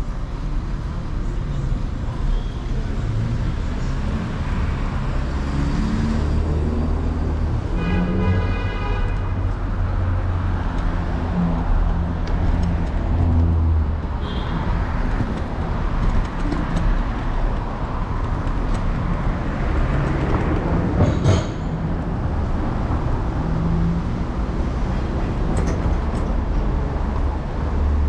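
City street traffic and road rumble heard from a moving electric scooter, steady throughout. A brief pitched sound comes about eight seconds in, and a sharp knock about twenty-one seconds in.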